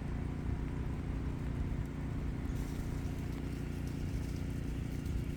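Steady low hum of a running generator engine, with faint scattered ticks over it.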